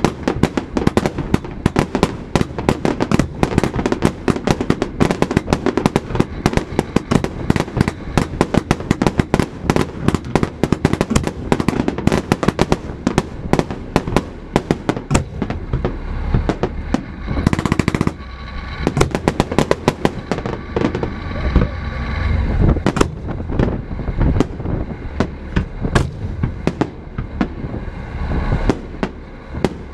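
Fireworks display: a dense, rapid volley of cracks and bangs for about the first half, a brief louder rushing burst a little past halfway, then sparser single bangs.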